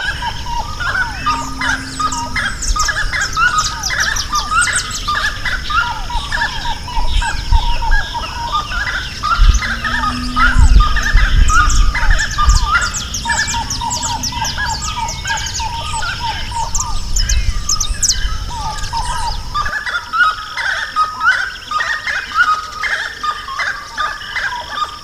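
A chorus of many birds singing and chirping at once, with quick repeated calls at several pitches over a steady high-pitched hum. A low rumble runs underneath and stops about three quarters of the way through.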